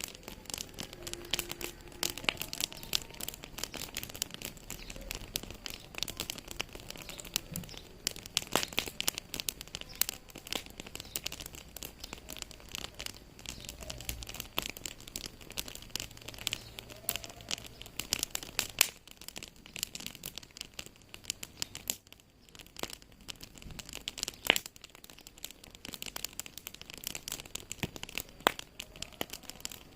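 Wood fire in a fireplace crackling steadily with dense small pops, and a few sharper snaps now and then.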